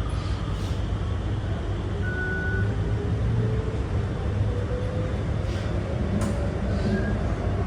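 SMRT R151 metro train heard inside the car while running: a steady low rumble of wheels on track, with a faint motor whine slowly rising in pitch as the train picks up speed. A short high tone sounds about 2 seconds in.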